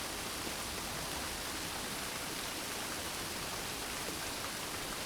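Steady light rain: an even hiss of rainfall without thunder.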